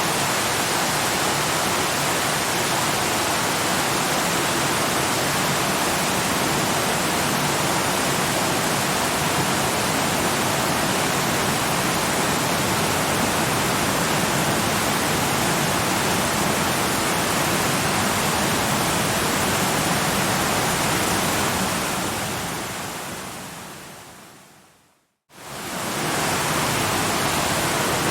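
Steady rushing of cascading waterfall water. About 22 seconds in it fades out to a brief silence, then quickly fades back in to the same level.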